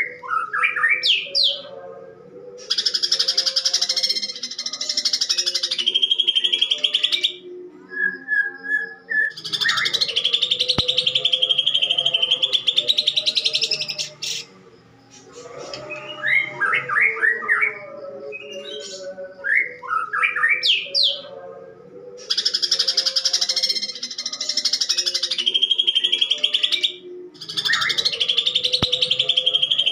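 Cucak ijo (green leafbird) singing in a harsh voice. Short rising whistled notes alternate with four long runs of fast chattering, which are its mimicry of fighting Eurasian tree sparrows.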